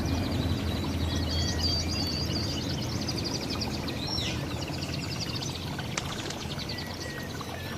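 Several small songbirds singing and calling together, with fast trills, chirps and a falling whistle about halfway through, over a steady low background hum.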